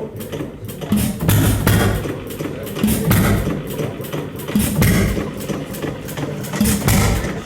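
Old Erie stationary gas engine running, its firing strokes heard as heavy low thumps that come in uneven groups of two or three with short gaps between.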